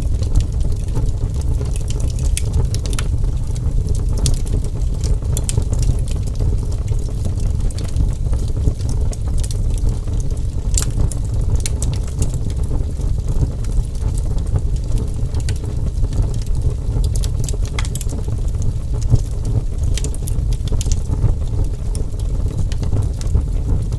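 Wood fire crackling: a steady low rumble of flames with irregular sharp pops and snaps scattered throughout.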